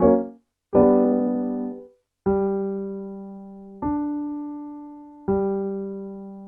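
Piano playing a warm-up cue: two chords struck, the first cut short, then single notes struck about every second and a half, each left to ring and fade. The single notes run a low note, the note a fifth above, then the low note again.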